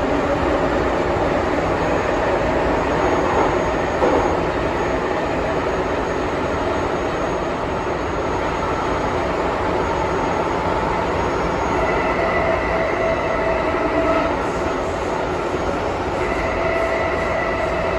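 MTR M-train electric multiple unit running along the track with a steady rumble of wheels on rail. Whining tones rise in and out about two-thirds of the way through and again near the end.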